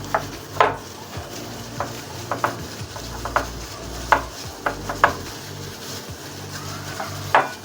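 A utensil stirring a spice mix of chilli powder, garlic powder, ginger-garlic paste, chaat masala, black pepper and salt in a bowl. Irregular scrapes and clinks against the bowl come every half second or so.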